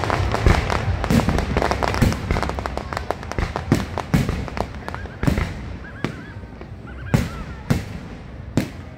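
Aerial fireworks bursting: a dense run of crackling bangs that thins to a few separate loud booms in the second half.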